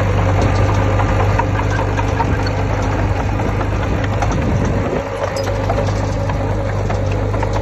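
Heavy diesel engine of earthmoving machinery running steadily, with scattered metallic clanks and rattles. The engine sound dips briefly about five seconds in.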